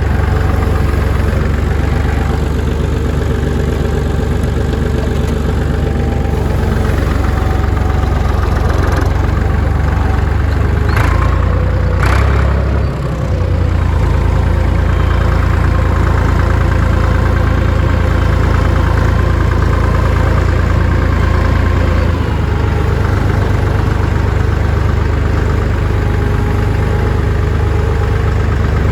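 Large farm tractor engine running at a steady idle, loud and close. Two sharp metallic clicks come about eleven and twelve seconds in, followed by a brief dip in the engine note.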